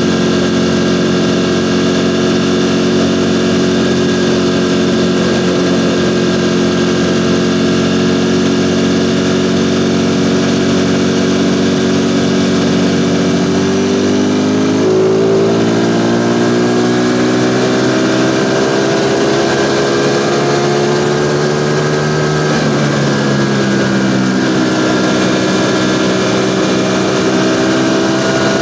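Ducati Panigale V4 sportbike's V4 engine running under way at steady revs. The engine note shifts in pitch about halfway through and again about three-quarters of the way through as the revs change.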